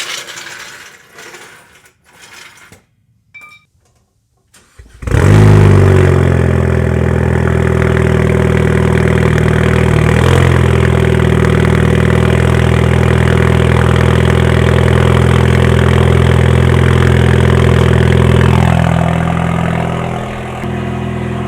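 2018 Ford Focus ST's turbocharged 2.0-litre four-cylinder, with an aftermarket exhaust, cold-starting: a few short knocks, then the engine fires about five seconds in. It runs at a loud, steady fast idle that steps down lower near the end as the cold-start idle eases off.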